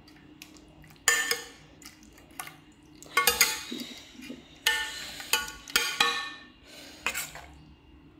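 Metal pots and utensils clattering in a kitchen: a series of sharp clanks, several of them ringing, spaced irregularly about a second apart.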